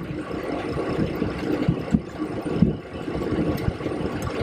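Boeing 727-200's Pratt & Whitney JT8D engines at idle, heard inside the cockpit as a steady hum and rumble with a few low thumps.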